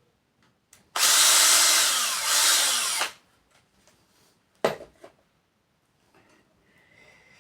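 Power drill with a small 5 mm bit running for about two seconds as it drills a hole, its pitch sagging near the end as it bites. A single sharp knock follows a couple of seconds later.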